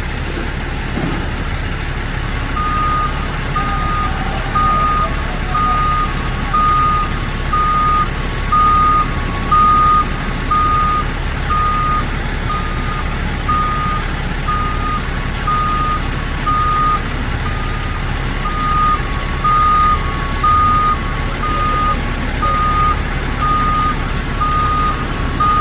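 A heavy truck's reversing alarm beeping steadily about once a second, starting a few seconds in, over the low rumble of a running diesel engine.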